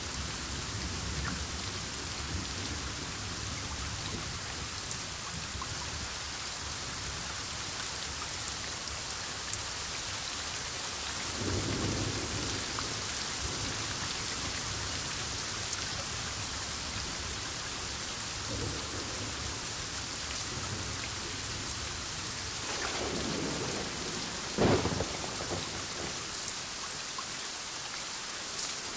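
Heavy rain falling steadily during a thunderstorm, with a low rumble of thunder about twelve seconds in and a sharp, close thunderclap about three-quarters of the way through that rolls on briefly.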